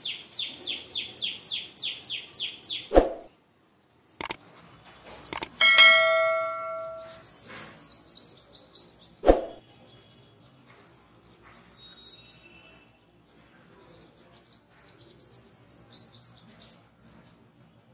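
Small birds chirping: a quick, regular run of high chirps, about six a second, for the first few seconds, then scattered chirps through the rest. A few sharp clicks come in between, and about a third of the way in a single bell-like ding rings out, the sound of a subscribe-button animation.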